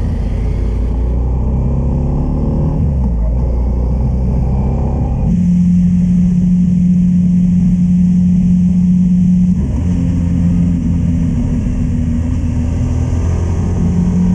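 Honda Transalp's V-twin engine pulling away and accelerating, its note stepping up and down with gear changes about five and ten seconds in, then running steadily at road speed with wind rush.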